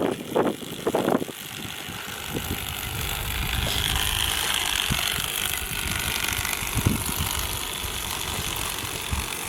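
Husqvarna EE5 electric dirt bike riding, its electric motor and chain drive whirring steadily, with a faint high whine a few seconds in and a few light clicks. A few short, loud sounds come in the first second.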